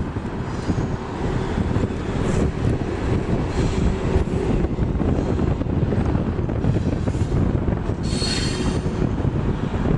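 Train rolling past, a steady heavy rumble of wheels on rail with short high-pitched wheel squeals, the loudest about eight seconds in.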